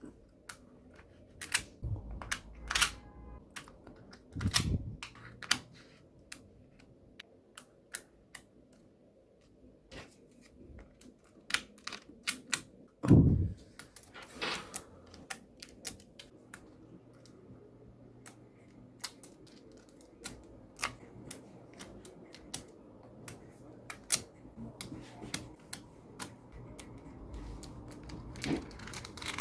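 Small magnetic balls clicking as they are snapped together and set in place: an uneven patter of sharp little clicks, with a few duller knocks, the loudest about thirteen seconds in.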